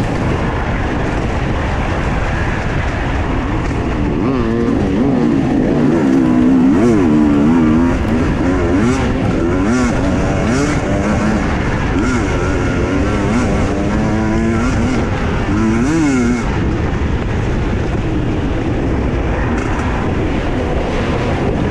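Husqvarna TE 250i two-stroke enduro motorcycle engine being ridden hard, revs climbing and dropping again and again as the throttle is worked, with the quickest swings in the middle of the stretch.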